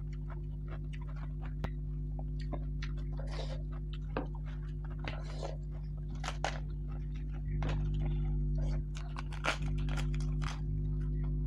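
Close-miked eating: crisp papad crunching between the teeth and chewing, with many short crackles and wet mouth sounds. A steady low hum runs underneath.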